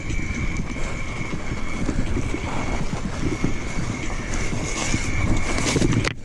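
Mountain bike riding over a dirt trail: tyre noise and the bike rattling over bumps, with wind on the microphone. It cuts off suddenly near the end.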